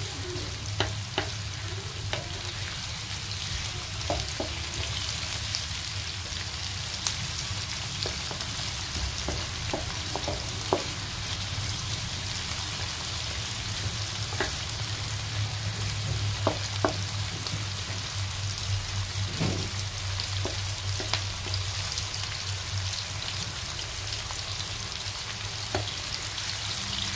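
Sliced onions, chillies and garlic sizzling in hot oil in a wok, being sautéed until fragrant, with a wooden spatula stirring and scraping and clicking against the pan now and then.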